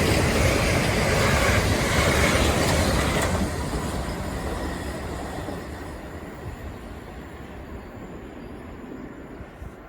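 An electric multiple-unit passenger train running through the station close by: loud wheel and running noise on the rails until about three seconds in, then steadily dying away as it moves off.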